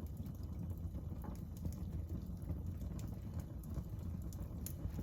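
Wood fire crackling: a steady low rumble of flames with scattered sharp pops and snaps.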